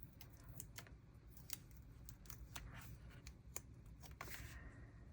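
Faint scattered clicks and light paper sounds of washi stickers being peeled and pressed onto a journal page, over a low room hum.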